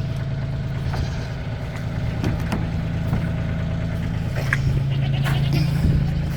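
Kioti CK2610 tractor's diesel engine idling steadily.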